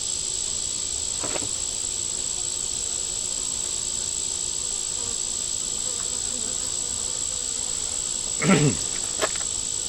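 Steady, high-pitched drone of insects with a faint, even hum of honey bees flying around an open hive. Near the end there is a short, louder pitched sound and a couple of small clicks.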